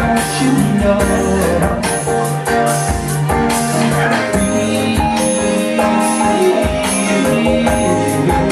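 A live band playing a song, with sustained instrument notes over a steady beat of percussion hits.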